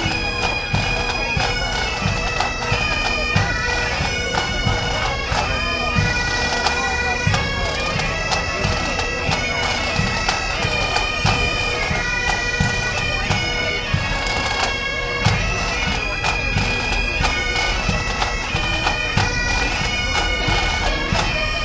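Bagpipes playing a tune, the chanter's melody stepping quickly from note to note over a steady, unbroken drone.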